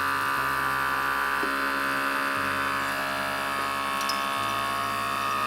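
Outin Nano portable espresso machine's electric pump running with a steady buzzing hum, pushing hot water through ground coffee in its filter adapter.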